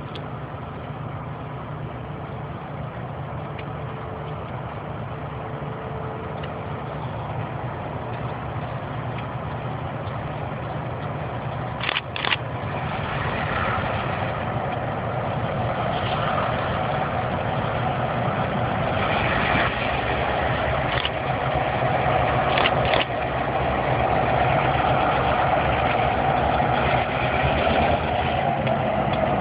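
Diesel freight locomotive engine running with a steady low drone that grows gradually louder as it approaches, with a few short sharp clicks along the way.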